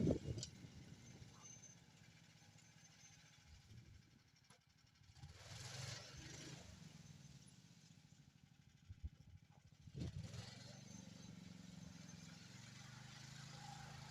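Homemade snowmobile's 20 hp Lifan engine running faintly, swelling louder about six seconds in and again near ten seconds.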